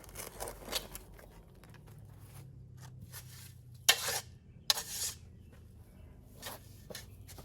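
Shovel digging into stony soil: a handful of short scrapes and clinks, the loudest about four and five seconds in, with quieter gaps between.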